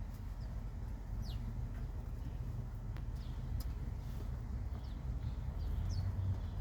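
Sparrows chirping: short, high, falling chirps scattered irregularly, over a steady low rumble of city background noise.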